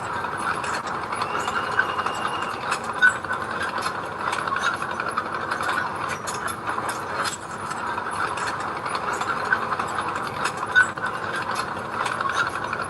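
Heavy machine's diesel engine running steadily, with continual metallic clicking and clatter from its working parts and two sharper clanks.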